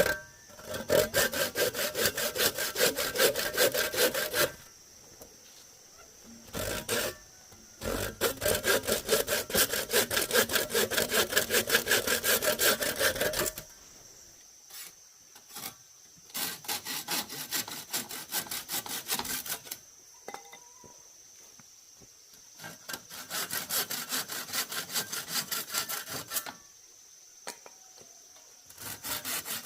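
Hand saw cutting through bamboo in quick back-and-forth strokes, in four bouts of a few seconds each with short pauses between.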